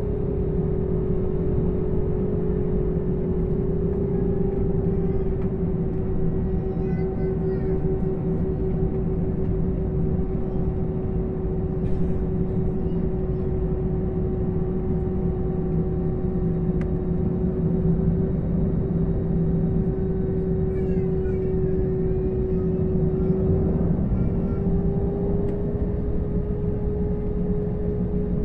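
Inside an airliner's cabin on the ground before takeoff: the engines run at idle as a steady low rumble under a constant whine. The whine wavers slightly, dips briefly near the end and comes back a little higher.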